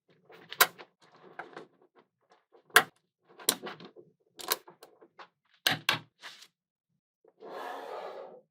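Small magnetic balls clicking and clacking together as they are snapped into place, in sharp irregular clicks with the loudest about three seconds in, followed by a second-long scraping rattle near the end.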